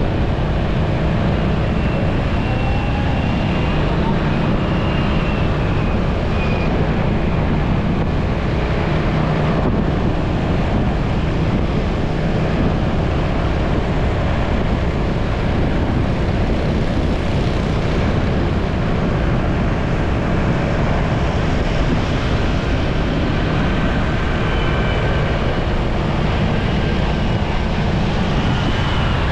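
Motorcycle running steadily at road speed, its engine hum mixed with wind rushing over the microphone and the noise of surrounding traffic.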